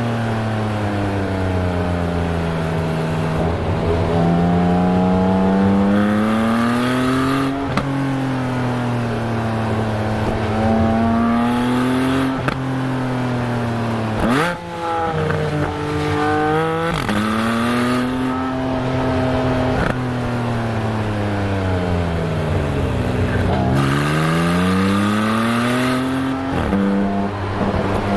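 Porsche 718 Spyder's 4.0-litre flat-six exhaust, heard close up at the rear bumper, as the car is driven. The revs rise and fall repeatedly, and quick PDK gearchanges break in several times.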